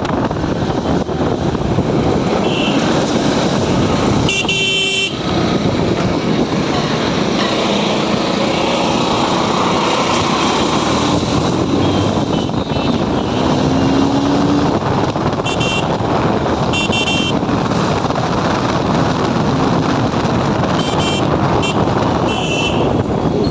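Motorcycle ride through city traffic: steady engine and road noise, with several short vehicle horn toots, the longest about four seconds in and a cluster near the end.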